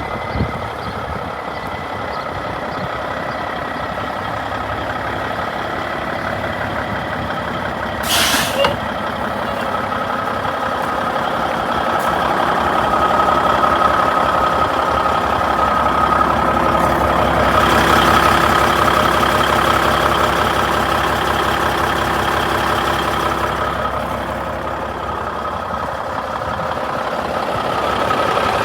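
1996 Freightliner FLD120 semi truck's diesel engine running, with a short loud hiss of air about eight seconds in, like an air-brake release. The engine grows louder through the middle and eases back near the end.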